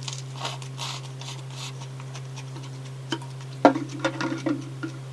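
Close-miked eating sounds: a person chewing a mouthful of salmon burrito, with small irregular wet clicks and crackles of chewing and the paper wrapper. A cluster of louder mouth sounds comes a little past halfway. A steady low hum runs underneath.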